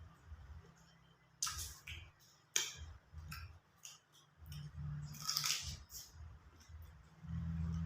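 Close-miked eating sounds: sharp wet smacks and clicks of chewing shrimp, the loudest a second and a half and two and a half seconds in, with a longer hissing slurp about five seconds in, over a low hum.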